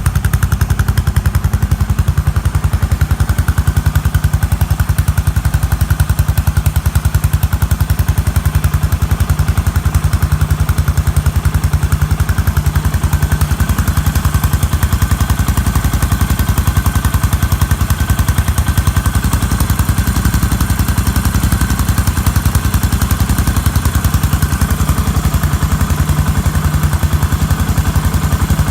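Yamaha SR400's air-cooled single-cylinder four-stroke engine idling steadily, an even, rapid beat of exhaust pulses with no revving.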